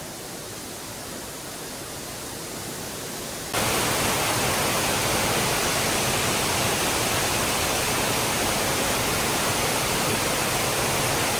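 Lower South Falls waterfall, a steady rush of falling water that gets suddenly louder about three and a half seconds in.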